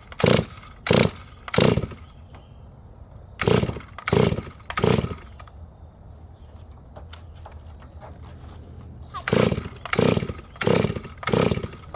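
Recoil starter of a freshly fuelled Holzfforma G444 two-stroke chainsaw being pulled on choke for a cold start: three pulls, a pause, three more, a longer pause, then a run of five quick pulls, with the engine not settling into a run.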